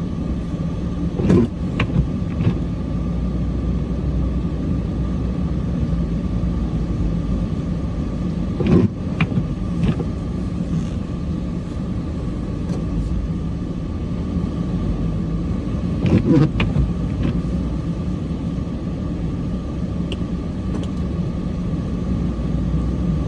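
Truck's Cummins diesel engine running steadily, heard from inside the cab, with three short knocks several seconds apart.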